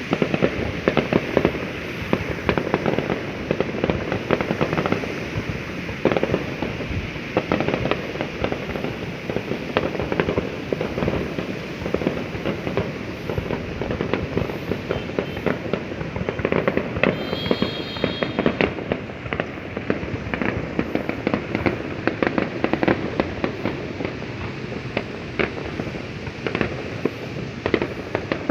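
Dense, continuous popping and banging of many fireworks going off at once, the cracks overlapping without a break. A brief high whistle rises out of it about two-thirds of the way through.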